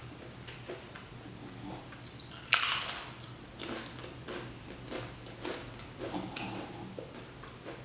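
A person eating instant noodles with crunchy chips close to the microphone: wet chewing and mouth smacks, with one loud, short noisy burst about two and a half seconds in.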